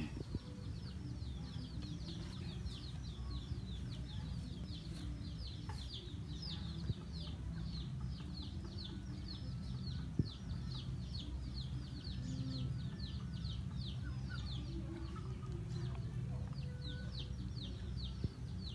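A bird giving short, high, falling chirps over and over, about three a second, over a steady low background rumble.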